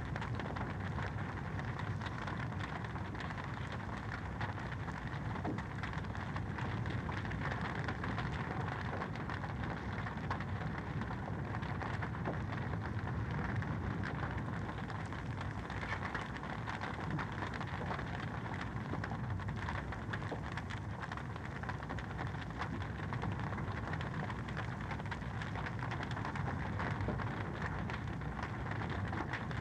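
Wood fire in a fireplace crackling steadily: a dense, even stream of small pops and ticks over a soft hiss.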